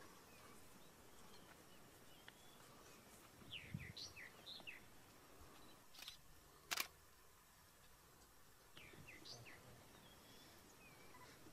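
Faint outdoor ambience with a few short bird chirps, in one cluster a few seconds in and another near the end, and one sharp click about seven seconds in.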